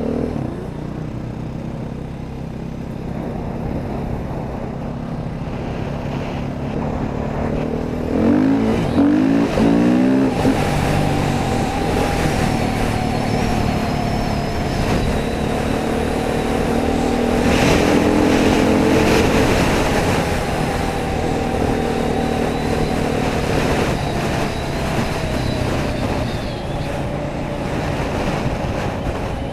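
Dirt bike engine running under way. It revs up and down in quick sweeps about eight to ten seconds in, then holds a steadier, slowly wandering pitch.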